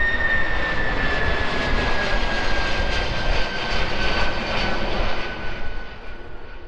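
Boeing 767 jet passing low: loud engine noise with a high whine that slowly falls in pitch, fading toward the end.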